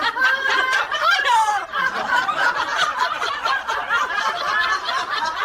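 Continuous laughter, a run of quick chuckles and snickers without words.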